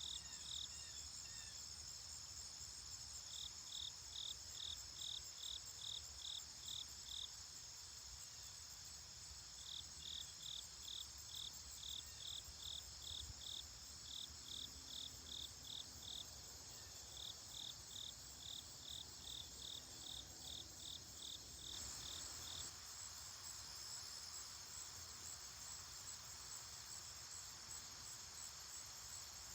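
Outdoor insect chorus: crickets chirping in regular runs, about three chirps a second, over a steady high-pitched insect drone. The chirping stops a little after two-thirds of the way through, leaving the drone.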